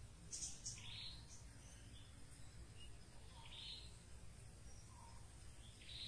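Sparse bird calls over a faint background hiss: a few short, harsh chirps a couple of seconds apart, with soft, short low notes in between.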